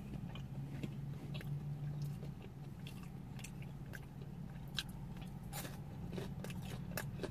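Close-up chewing and mouth sounds of someone eating soft pretzel dipped in cheese sauce, with scattered small clicks and smacks. A faint low hum sits underneath in the first two seconds.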